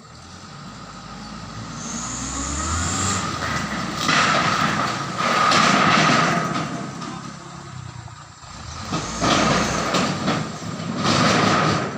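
Steel wide-flange beams being unloaded from a truck: an engine note rising over the first few seconds, then loud surges of metal scraping with a steady squeal, three times.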